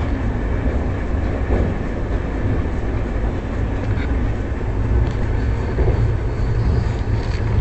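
Passenger train running: a steady, continuous low rumble.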